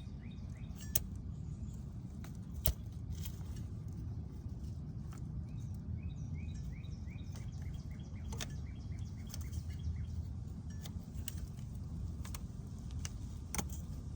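Scattered light clicks and taps of hand tools working on the compressor mounting bolts, over a steady low background rumble. Faint bird chirps come and go.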